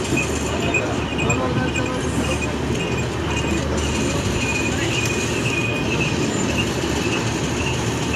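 Passenger train running along the track: a steady rumble of wheels on rail, with short high squeals coming and going.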